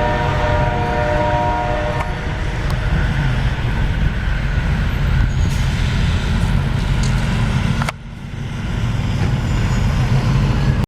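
Diesel locomotive horn sounding a chord that stops about two seconds in, followed by the heavy rumble of a train passing close by; the rumble briefly drops about eight seconds in and then returns.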